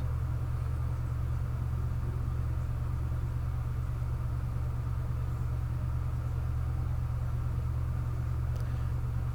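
A steady low hum with a faint hiss above it: background noise of the recording during a pause in speech.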